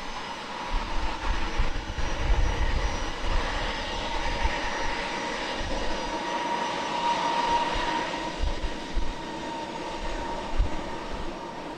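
Southwest Boeing 737's jet engines at takeoff thrust: a steady roar with a whine that swells to its strongest about two-thirds of the way through, as the jet rolls down the runway for takeoff. Short low rumbles of wind on the microphone come and go.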